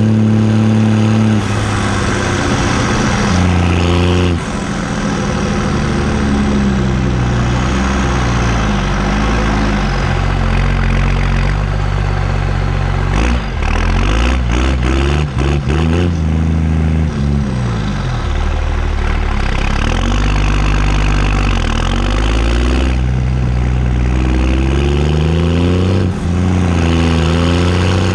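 New Holland T6030 tractor's diesel engine running through a straight-pipe exhaust, its pitch rising and falling repeatedly as the revs change. There are a few brief drops in the sound about halfway through.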